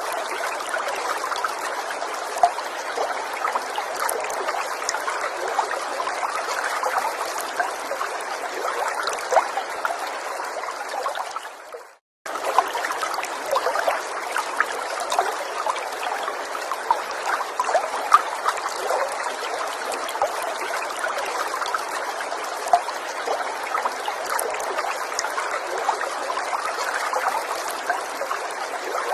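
Small forest stream trickling steadily, with many small splashes and gurgles. About twelve seconds in the sound fades out to silence for a moment and cuts back in abruptly, a splice in the recording.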